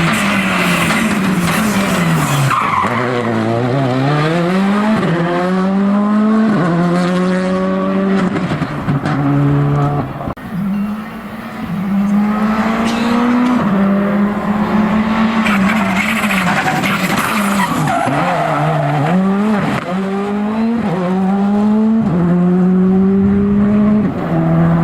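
Rally car engines at full throttle, revving up through the gears and dropping sharply on the lift for corners, the pitch climbing and falling again and again, with a brief dip about ten seconds in.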